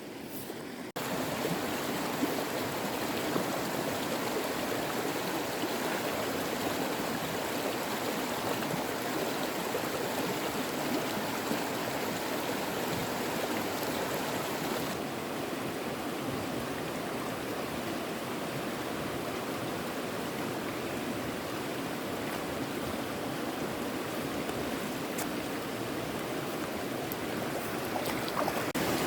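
Steady rush of flowing water, like a stream, stepping up abruptly about a second in and shifting slightly in tone about halfway through.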